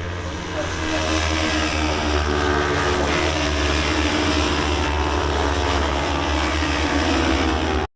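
Racing motorcycles at high revs going round the circuit, several engines heard at once. It cuts off suddenly near the end.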